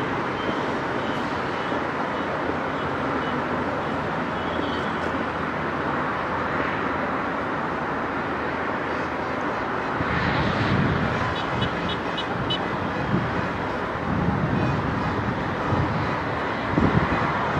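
Steady outdoor noise like street traffic, with several dull low thumps in the second half.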